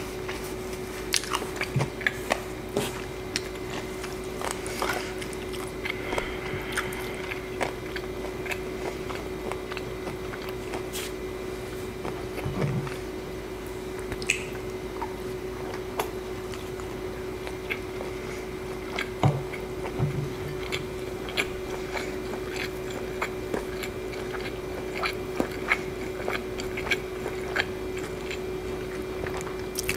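A person chewing and biting food close to the microphone, with irregular wet mouth clicks and smacks, over a steady low hum.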